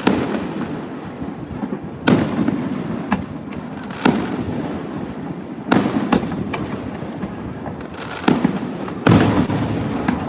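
Aerial fireworks bursting: about six loud booms, one every second or two, each followed by a rolling echo, with smaller cracks in between.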